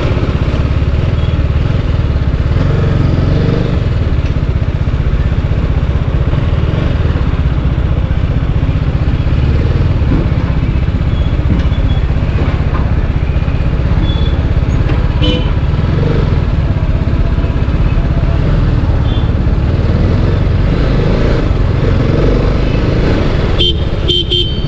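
A motorcycle cruising steadily on a highway: constant engine and road noise under a loud, even low rumble, with a brief dip near the end.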